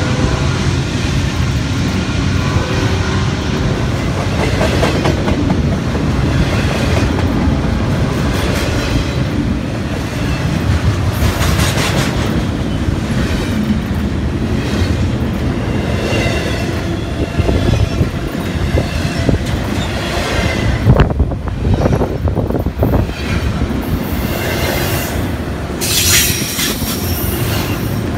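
Double-stack container train's freight cars rolling past at close range: a steady rumble of steel wheels on rail with clicking over the rail joints. A brief high-pitched wheel squeal comes a little before halfway and a longer one near the end, with a cluster of sharp knocks about three quarters of the way through.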